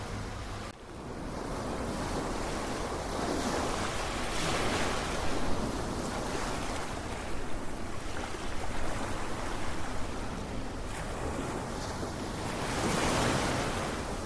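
Ocean waves breaking and washing onto a shore, with a brief drop in level about a second in and two waves swelling up, one around four to five seconds in and another near the end.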